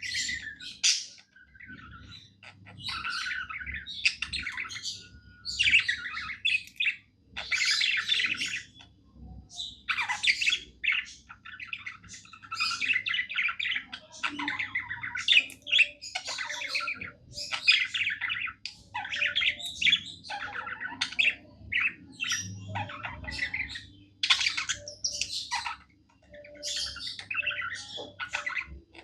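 Budgerigar warbling: bouts of rapid chattering, chirps and squawks, each lasting a second or so with short pauses between.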